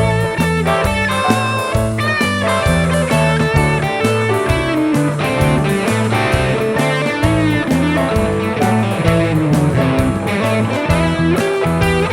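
Blues-rock band playing an instrumental passage: electric guitar over a bass line and a steady drum beat, with the guitar bending notes.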